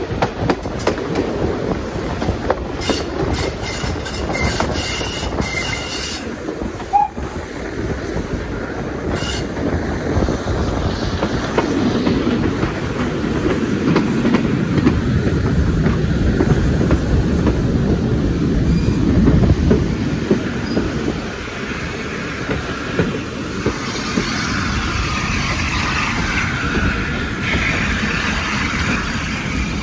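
Railway carriage running along the track, the wheels rumbling and clattering over the rail joints. A higher squeal joins in near the end as the train draws into a station.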